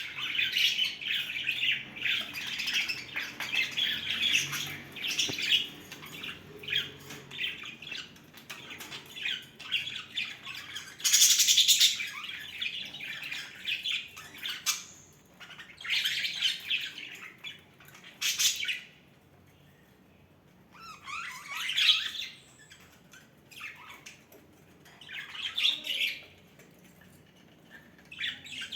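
Pet budgerigars chattering in irregular bursts of high chirps and warbles, with one louder call about eleven seconds in and a brief lull around twenty seconds.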